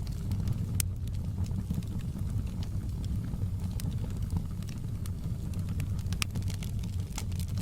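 Wood fire crackling, with irregular sharp pops and snaps over a steady low rumble; the pops come thicker near the end.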